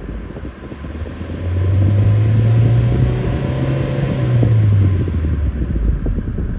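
A car's MultiAir petrol engine running just after a jump start, its low note swelling up about a second and a half in, holding steady, then falling away near the end.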